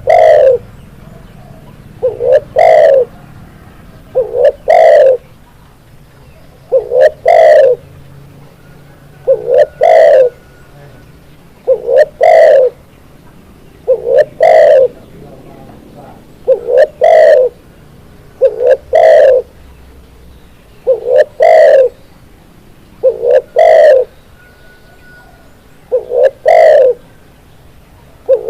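Spotted dove (tekukur) cooing: a loud two-part coo, a short note then a longer one, repeated about every two seconds, about a dozen times.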